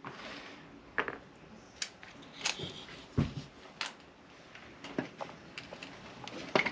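Scattered small clicks and knocks, about half a dozen spread out, from an RC car's freshly separated motor and parts being handled on a workbench.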